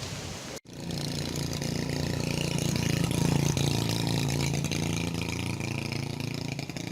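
A motorbike engine running steadily, coming in after a sudden cut under a second in and growing a little louder before holding.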